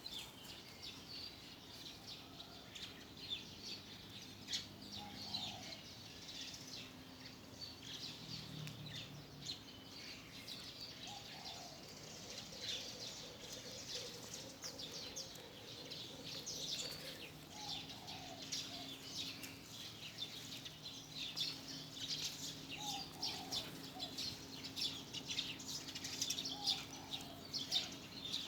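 Many small birds chirping constantly, with short high chirps overlapping all the time. A lower call sounds every few seconds, over a faint steady hum.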